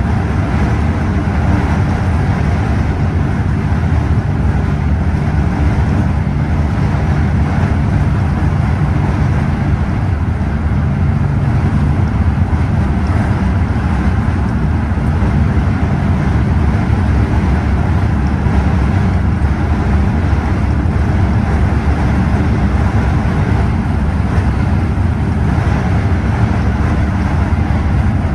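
Scania OmniExpress coach driving at a steady speed: an even engine drone with tyre and road noise, holding constant with no gear changes or stops.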